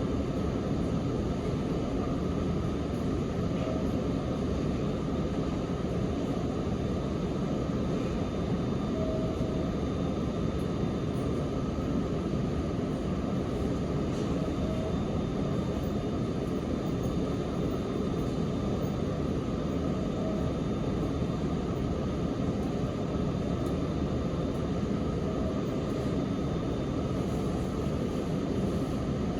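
Interior running noise of a Sanyo Electric Railway 3050 series train under way: a steady, even rumble of wheels on rail and motors, with no let-up.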